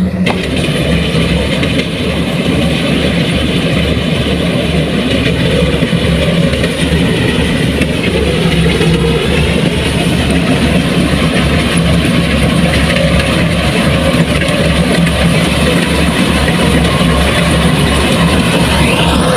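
Large machine engine running steadily with a low, even throb.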